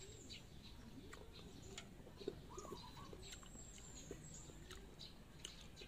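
Near silence, with faint bird calls and chirps in the background and a few soft clicks.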